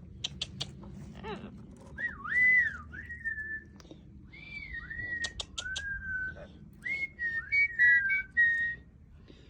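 Parrot whistling: a string of sliding, swooping whistles that rise and fall, beginning about two seconds in, with a few sharp clicks in between.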